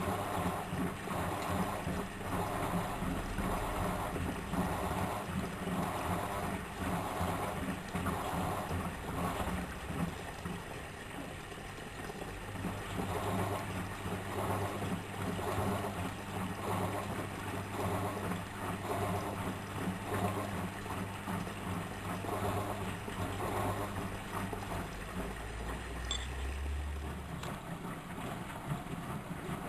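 Miele W763 front-loading washing machine running a wash phase: the motor hums steadily while the drum turns and water and laundry swish in a regular rhythm.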